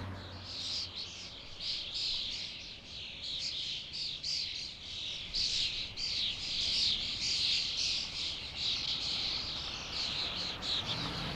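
A large flock of starlings chattering and calling all at once: a dense, unbroken din of many overlapping high chirps and squeaks.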